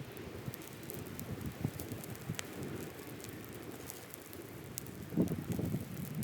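Wood campfire burning: a low rumble from the flames with scattered sharp crackles and pops, and a louder surge of the rumble about five seconds in.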